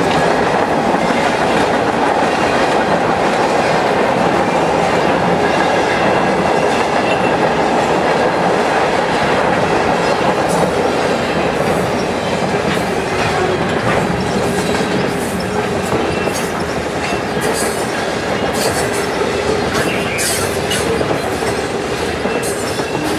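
A freight train's cars, mostly tank cars with some covered hoppers, rolling past at close range. The steel wheels rumble steadily on the rails, with sharp clacks that grow more frequent in the second half.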